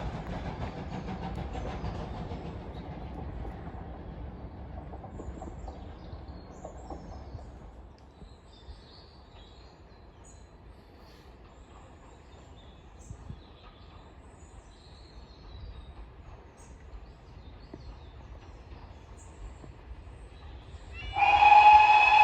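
A steam-hauled train running away from the crossing, its rumble and wheel clatter fading over the first several seconds, then faint birdsong. About 21 s in, the open level crossing's electronic alarm starts abruptly and sounds loud and steady, warning that the next train is approaching.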